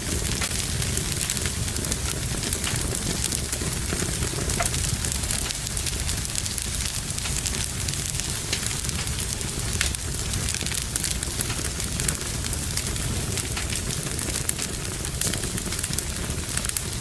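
Wood fire burning in a fireplace: a steady low rumble and hiss of the flames with frequent small crackles and pops throughout.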